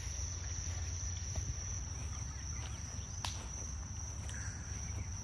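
A steady chorus of insects, crickets or similar, holding one constant high shrill note over a low steady rumble. There is a single sharp click about three seconds in.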